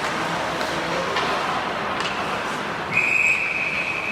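Ice hockey referee's whistle, one steady blast stopping play, starting about three seconds in and lasting about a second and a half. It sounds over continuous rink noise with a couple of sharp knocks earlier on.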